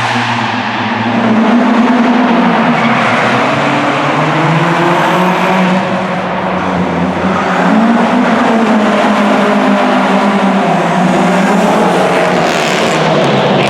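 Classic rally-style cars' engines revving hard, the engine note rising and falling repeatedly.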